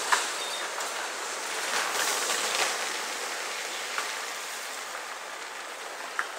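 Rushing noise of a freight train's wheels on the rails as it moves away, fading slowly, with a few sharp clicks.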